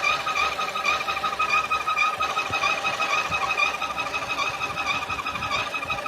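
A steady high whistle, slightly wavering, with a fainter higher overtone, over the idling engine of a 2007 Chevrolet Aveo 1.2.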